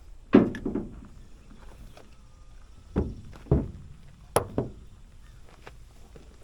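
A few dull clunks and knocks, then a sharp metallic clink, as metal equipment parts are handled and set down during a hydraulic pump repair.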